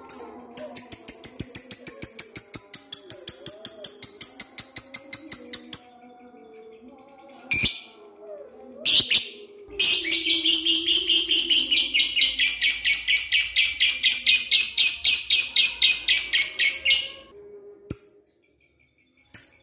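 Lovebird giving its long, rapid chattering trill, the 'ngekek panjang' of a bird in full song: two long bouts of fast, evenly repeated high notes, the second longer, with a couple of short bursts between them.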